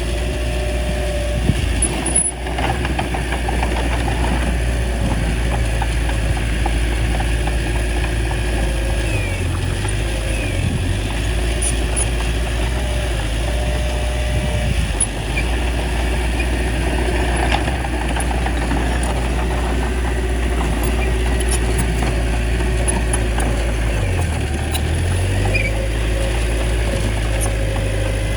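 Bulldozer's diesel engine running steadily, its low note briefly shifting twice, with a few sharp clicks.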